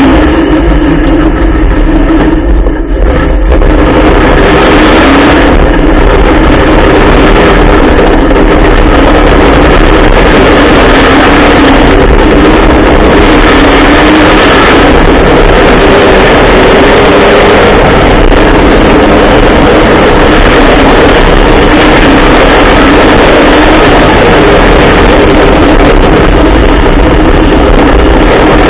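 Trophy truck's Dart 363 Coyote-based Ford V8 running hard under way, very loud, with only small changes in pitch and a brief drop in level about two to three seconds in.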